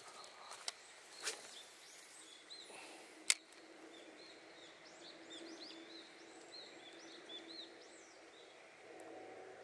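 Faint birdsong: many short, high chirps repeating for several seconds. A few sharp clicks come in the first few seconds, the loudest about three seconds in.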